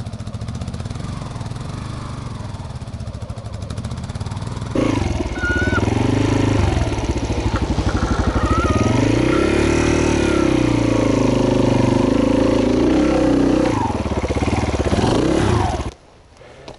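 Small trail motorcycle engine running at low revs, then about five seconds in it gets louder and revs up and down repeatedly under throttle, and shuts off abruptly near the end.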